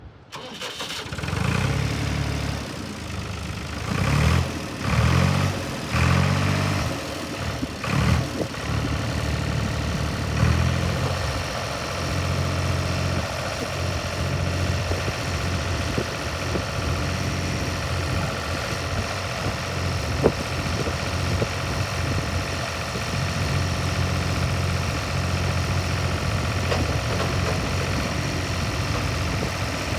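Universal 530 tractor's diesel engine running. It surges louder several times in the first ten seconds or so, then idles steadily. A single sharp click comes about twenty seconds in.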